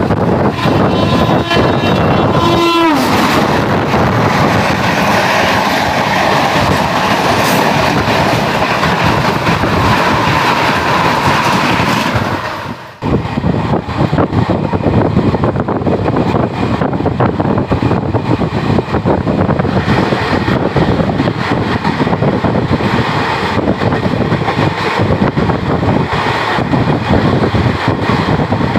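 A fast-moving Indian Railways train's wheels clattering and air rushing past, heard from an open coach doorway. A train horn sounds for about two seconds near the start, its pitch dropping as it cuts off. About halfway through the sound drops out briefly, then comes back as a dense clattering rush, with another train's coaches passing close alongside near the end.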